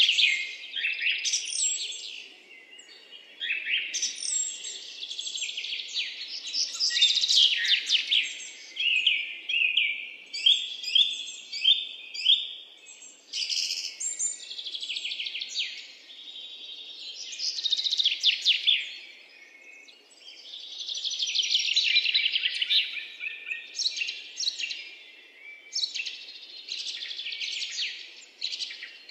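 Birds chirping and singing without a break, a dense run of quick chirps and trills overlapping one another.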